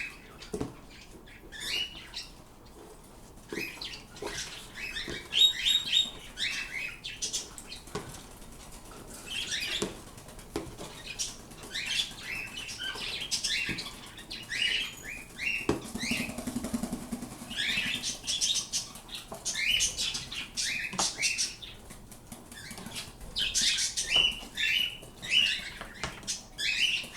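Pet birds chirping with many short, high calls, in clusters through the whole stretch, with a few sharp knocks and clicks among them.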